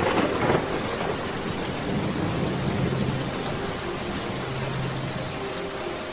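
Steady heavy rain falling, with a thunderclap cracking right at the start and fading into rumble within about a second.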